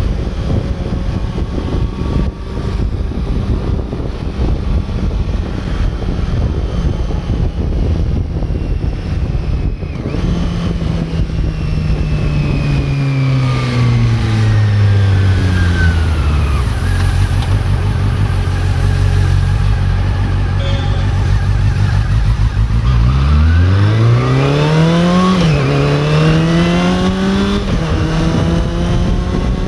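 Honda CB400 Super Four inline-four engine under way with wind noise on the microphone. About ten seconds in the engine note falls as the bike slows, holds a low steady note, then revs up again with a gear change partway through and settles at a higher steady note near the end.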